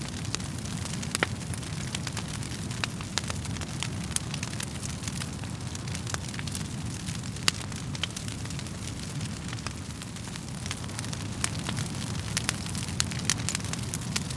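Wood fire crackling: a steady low rumble of the flames with frequent irregular sharp pops and snaps from the burning logs, one louder pop about halfway through.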